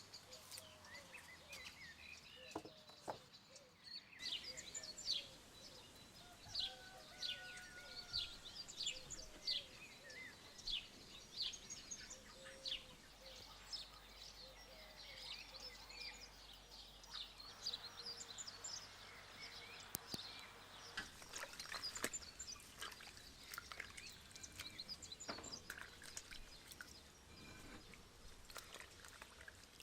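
Birds chirping: a run of short, sharp, high calls that sweep downward, about one or two a second, with a few softer, lower whistles among them.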